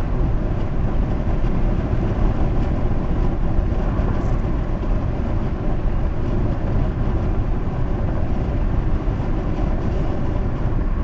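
Steady road and tyre noise with a low engine hum, heard from inside a car cruising on a highway.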